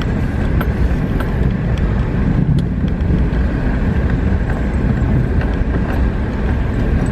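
Car driving slowly on a gravel dirt road, heard from inside the cabin: a steady low rumble of tyres on the road, with scattered small clicks of stones.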